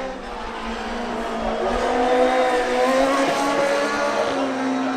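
A car engine running at fairly steady revs, growing louder toward the middle and easing off near the end.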